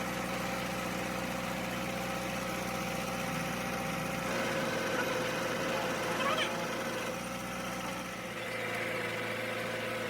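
An engine running steadily, with its hum shifting slightly a couple of times and a brief high squeak about six seconds in.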